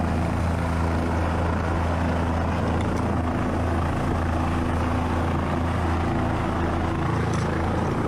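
Helicopter running steadily: a constant, even drone of rotor and engine with a steady low hum.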